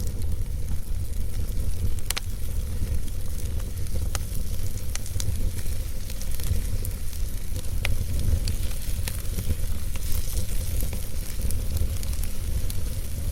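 Wood fire burning in a fireplace: a steady low rumble of flames with frequent small crackles and pops of the burning logs, and a couple of sharper pops about two seconds in and again near eight seconds.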